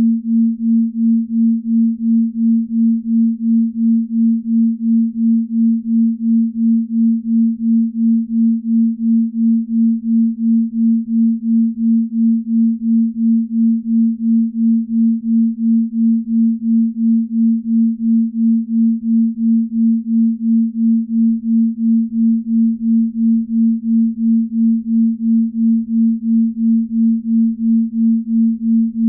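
Binaural beat for deep sleep: a steady pure sine tone of about 230 Hz that swells and fades evenly at a little over two pulses a second, the slow delta-range beat of two slightly detuned tones.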